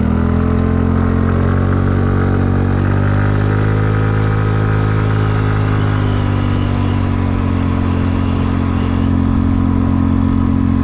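Kymco People 250 scooter's single-cylinder engine running at a steady cruising pitch while riding, its exhaust leaks patched with JB Weld high-heat epoxy. A rush of wind noise rises over it from about three seconds in and drops away about nine seconds in.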